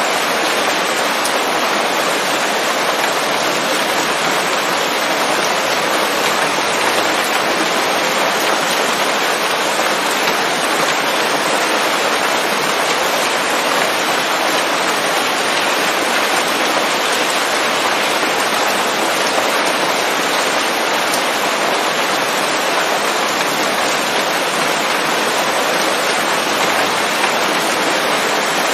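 Steady, dense rain falling on leaves, an even wash of drops with no thunder.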